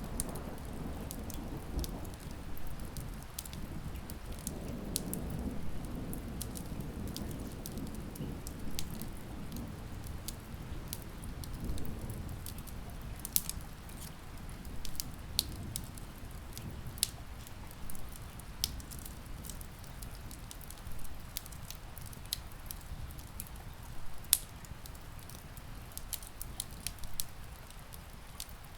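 Wood fire crackling with frequent sharp pops over a steady patter of rain on a window. A low rumble swells and fades over the first half.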